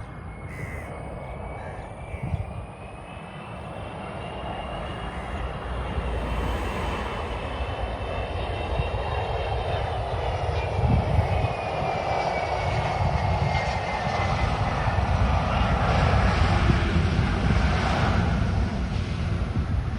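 Jet airliner's turbofan engines on approach to land: a high whine that slides down in pitch over the middle of the clip, over a rumble that grows steadily louder.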